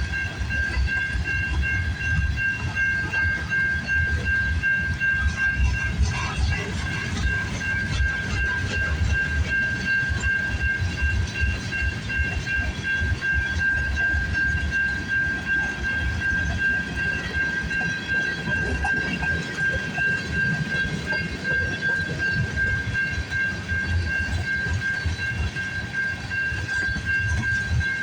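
Freight train cars rolling past at track speed: a steady low rumble with the clack of wheels over the rail, and a steady high-pitched ring over it.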